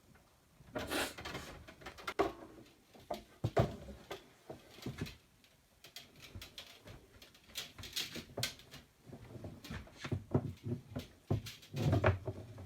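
Irregular knocks, clicks and scrapes of things being handled, in uneven clusters, with the loudest clatter near the end.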